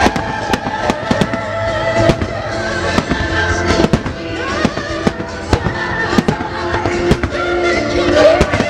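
Fireworks shells bursting in rapid, irregular bangs and crackles, several a second, over music from musical melodies that the display is synchronised to.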